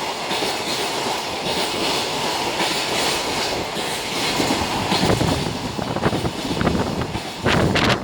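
Freight train container wagons passing at speed, their wheels clattering and rumbling over the rail joints, with a louder burst of clatter near the end.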